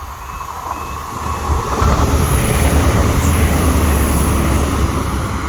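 A train passing close by at a level crossing. Its rumble builds about a second and a half in and stays loud, with a high hiss above it.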